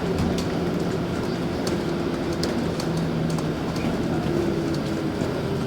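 Cabin noise of a LiAZ 5292.65 city bus under way: a steady engine and road drone with a faint pitched hum that drifts slightly, plus scattered light rattles and clicks from the interior.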